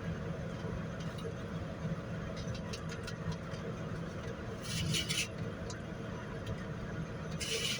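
Steady low engine-like hum, with a few faint ticks and two short crackling bursts, about five seconds in and near the end.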